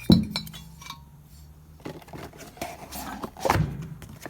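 Small engine parts and their packaging being handled and set down: a sharp knock right at the start, then rustling and light clinks, and another knock about three and a half seconds in.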